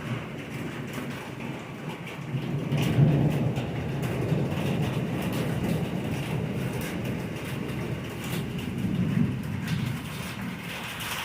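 Long rolling thunder over steady rain, the rumble swelling about three seconds in and again near nine seconds.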